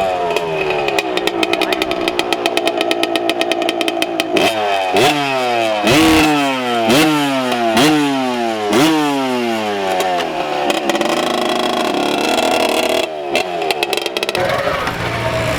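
Small Chinese 50cc pit bike engine, a Honda Z50 replica, running: it idles steadily, then is revved in a quick run of about eight throttle blips, each rising and dropping back, before settling again. The engine is described as so quiet.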